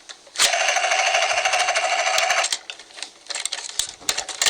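Dinoco helicopter toy's built-in rotor sound effect: a buzzy, rapidly pulsing whir from its small speaker for about two seconds, cutting off abruptly. Light plastic clicks and rattles of the toy being handled follow.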